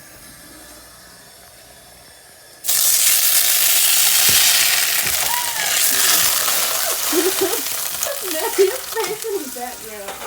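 Butter sizzling in a hot pan for the sauce. It starts suddenly about three seconds in and eases off slowly.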